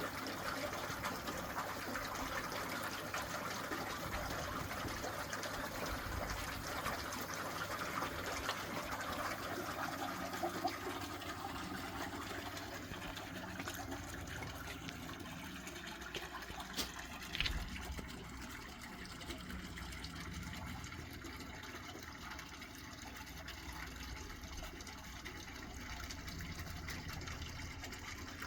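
Water running steadily into a tank, stronger for the first ten seconds or so and then easing off, over a low hum, with a sharp click a little past the middle.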